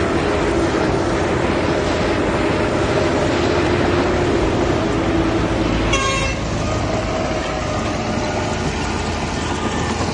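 Heavy diesel earthmoving machinery running steadily, with a brief high-pitched tone about six seconds in.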